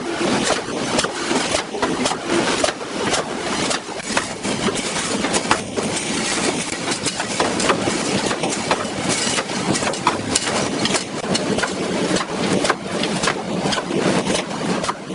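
Full-auto wire mesh welding machine with mesh flipper running: steady machine noise with frequent irregular clicks and clanks.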